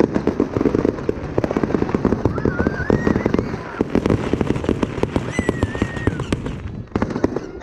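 Fireworks display going off in a dense, rapid string of bangs and crackles, with a brief lull near the end.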